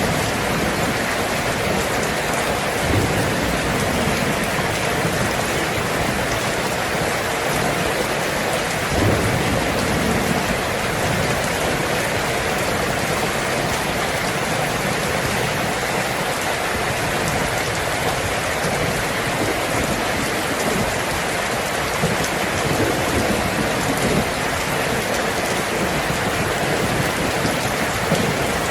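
Heavy rain drumming steadily on a tin roof, with low thunder rumbling in now and then.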